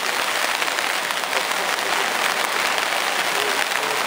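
Heavy rain from a downpour, a steady dense patter of drops.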